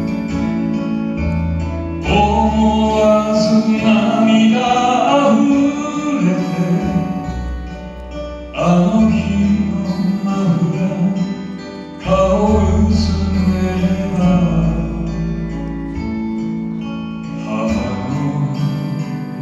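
Japanese kayō song with acoustic guitar accompaniment and a singing voice, in phrases of a few seconds each.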